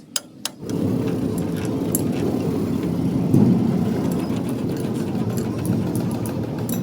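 A few sharp clicks, then, just under a second in, an engine starts running steadily and stays loud and low-pitched; it is most likely the Hino truck's diesel engine.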